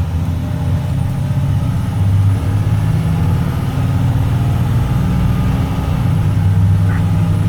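2006 Blue Bird Vision school bus's Caterpillar C7 inline-six diesel engine running steadily with a low drone, heard from inside the bus.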